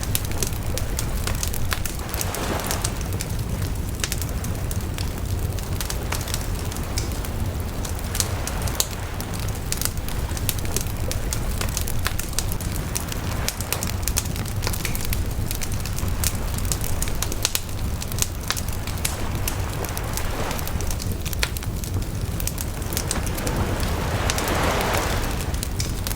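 Wood bonfire burning, its logs crackling and popping in a steady run of sharp snaps over a low rumble of flame. A few softer rushing swells come and go, the strongest near the end.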